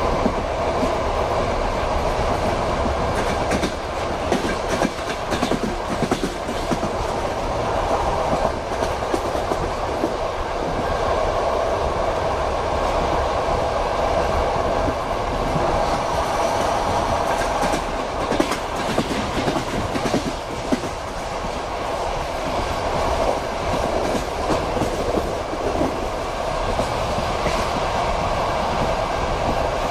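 Passenger train carriage running at speed: a steady rumble of the wheels on the rails, with irregular clickety-clack clicks as the wheels cross rail joints.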